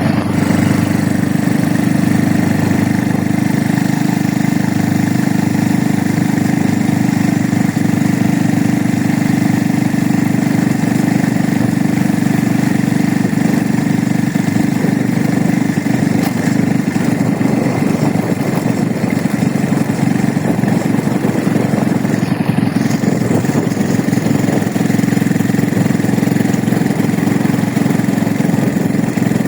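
A vehicle's engine running steadily at an even speed, with a constant low drone and road noise and no change in pitch.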